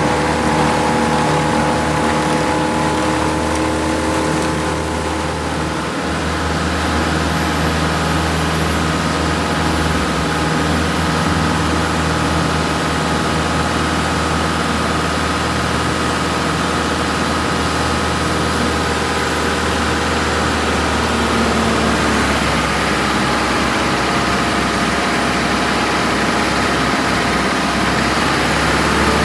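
Engine of a heavy tree-cutting machine running steadily, with a slight shift in its pitch about two-thirds of the way through.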